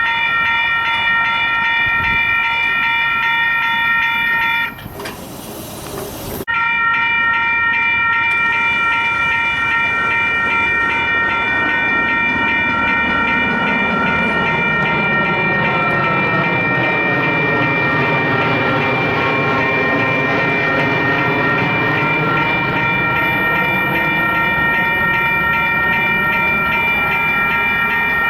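Caltrain passenger train running past, its rumble sweeping as it goes by, with a steady high-pitched tone held throughout. The sound drops out briefly about five seconds in.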